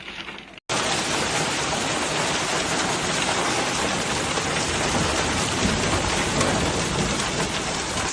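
Hail falling hard, a dense steady clatter and hiss of ice pellets hitting surfaces. It starts abruptly just over half a second in.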